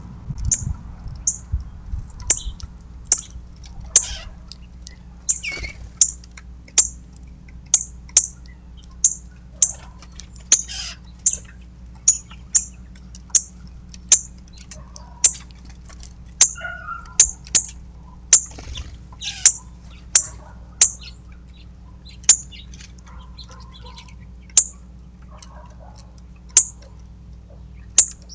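A small bird chirping repeatedly: sharp, very short, high chirps, roughly one a second, thinning out over the last few seconds, with a few fainter, lower calls among them.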